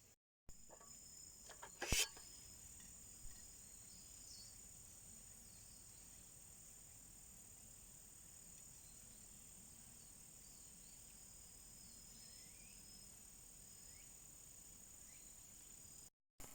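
Quiet outdoor ambience with a steady, faint, high-pitched insect drone and a few faint chirps. A single sharp click about two seconds in is the loudest sound.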